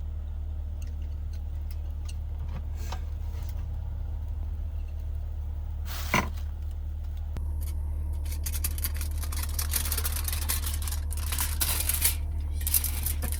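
A steady low hum throughout, a single sharp click about six seconds in, then from about halfway a dense run of crisp crackling and crinkling handling sounds.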